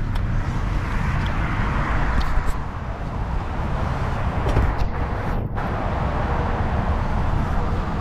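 Steady low rumble and hiss of idling cars queued outdoors.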